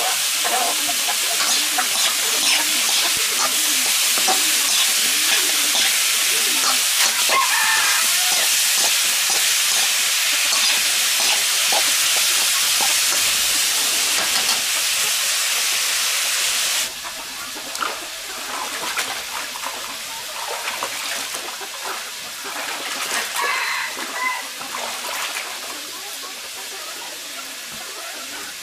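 Food sizzling and crackling in a hot pan, with chickens clucking now and then. The sizzle stops abruptly about two-thirds of the way through, leaving quieter clucking and small clatters.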